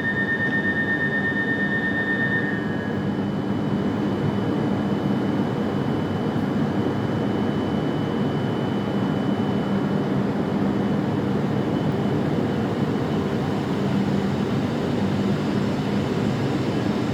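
Joetsu Shinkansen train departing the station, a steady loud rush and hum of the moving train. A pair of high steady tones stops about two seconds in, and a fainter high whine fades away by about halfway through.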